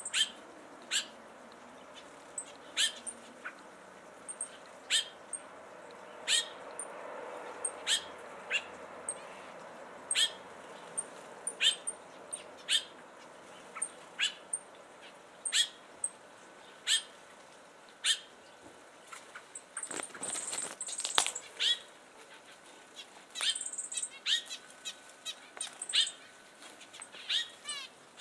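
A thrush giving short, sharp notes about once a second, over faint high chirps from small caged finches. About twenty seconds in there is a brief flurry that sounds like wings flapping.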